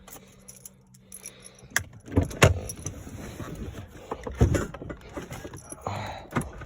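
Keys jangling, with scattered clicks and several loud knocks and thumps in a pickup cab right after the diesel engine is shut off. A faint low hum dies away in the first second or two.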